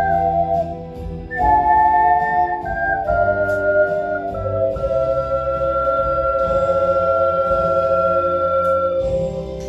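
Ocarina ensemble playing a slow melody in several parts over an accompaniment. A few note changes lead into a long held chord, whose ocarina notes stop about nine seconds in, leaving the accompaniment softer.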